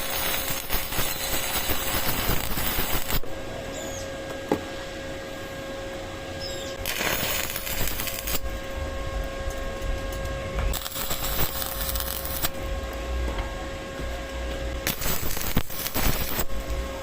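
Stick-welding arc with a 6013 electrode, crackling and hissing in several short runs of a second or two with brief pauses between.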